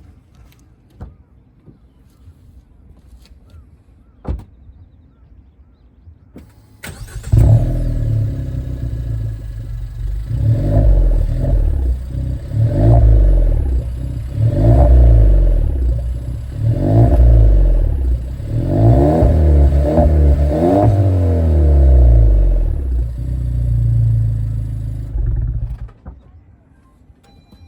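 Suzuki Swift Sport ZC33S's 1.4-litre turbocharged four-cylinder, fitted with an HKS Hi Power SPEC-L II aftermarket muffler, starting about seven seconds in after a quiet stretch with a single click. It idles, is blipped through several quick revs that rise and fall, settles back, and is switched off near the end.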